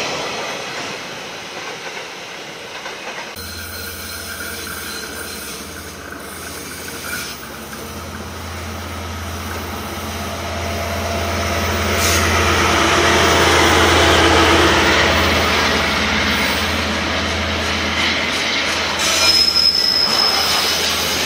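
KiwiRail DL-class diesel locomotive approaching and passing at the head of a container freight train: a steady low engine drone that grows louder to a peak about two-thirds of the way through, then container wagons rolling by, with a brief high wheel squeal near the end. In the first three seconds the noise of an earlier passing train fades and is cut off abruptly.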